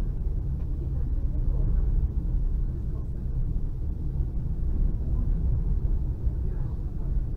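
Steady low rumble of an electric commuter train running along the line, heard from inside the passenger carriage.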